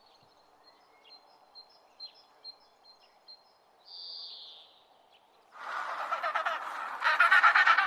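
Faint small-bird chirps with two longer high calls. About five and a half seconds in, farmyard fowl break into loud, rapid, warbling calls, loudest near the end.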